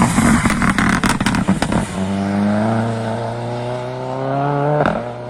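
Rally car under hard acceleration: about two seconds of rough engine noise with sharp cracks, then the engine note climbs steadily for about three seconds before an upshift near the end drops the pitch.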